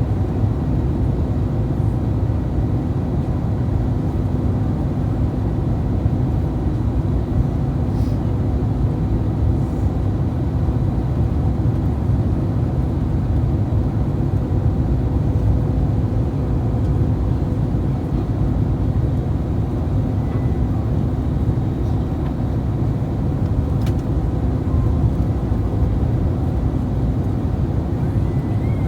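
Steady cabin noise inside an Airbus A321-231: a constant low rumble from its IAE V2500 engines and airflow, with a faint steady whine over it.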